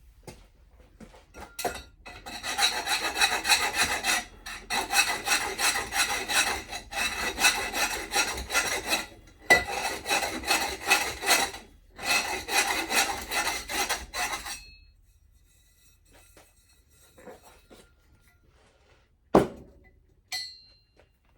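A hand tool rasping in rapid back-and-forth strokes for about twelve seconds, broken by three short pauses, then a sharp knock near the end.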